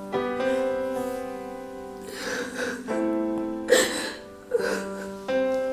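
Slow background piano music with sustained notes, with a few short breathy sounds over it.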